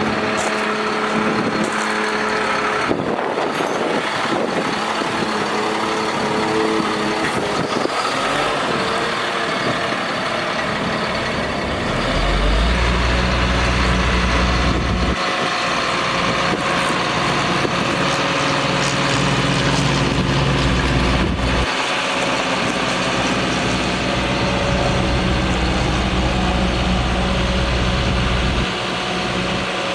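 Truck engine running steadily; about twelve seconds in it settles into a heavier, deeper running that drops back briefly a couple of times and eases near the end.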